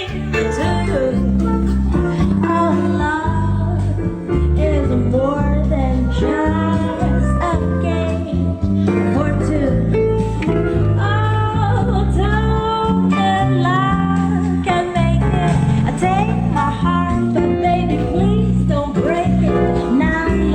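A song with a singer over a strong, steady bass line, played back through home speakers with a Yamaha subwoofer during a bass and centre-speaker test.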